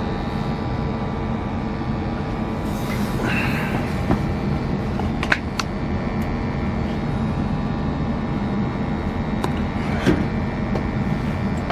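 Steady hum and rush from a Rheem gas water heater's newly lit burner and the combustion analyzer sampling its flue gas, with a couple of light clicks.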